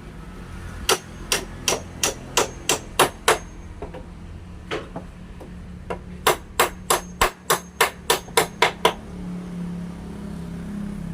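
Hammer striking wood in quick, even runs of blows, about three a second, with a short pause in between. After the last blow, a steady low hum takes over.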